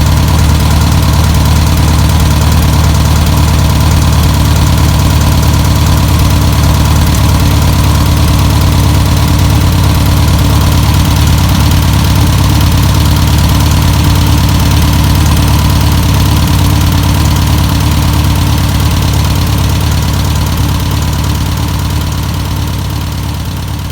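Air-cooled flat-four engine of a 1962 Volkswagen Type 2 van running steadily at idle after sitting for over 40 years, fading away over the last few seconds.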